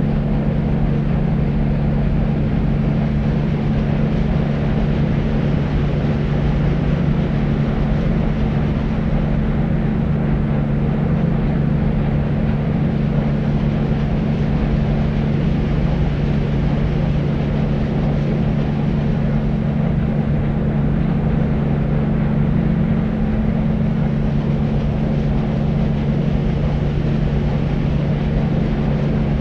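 Deep white noise for sleep: a steady, unbroken rumbling hiss weighted toward the low end, with a constant low hum running through it.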